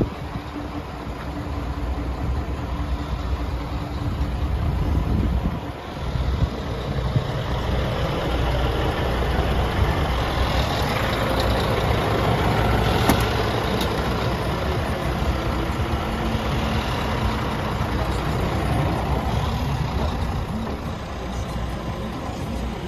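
Scania R400 truck's diesel engine running steadily, growing louder for a few seconds in the middle. A single sharp click about thirteen seconds in.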